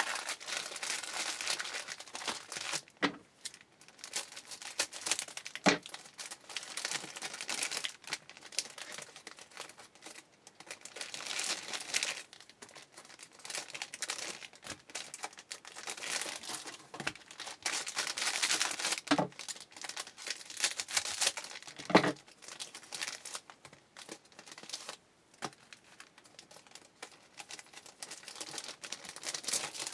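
Trading card pack wrappers being crinkled and torn open by hand, on and off, with a few sharp taps.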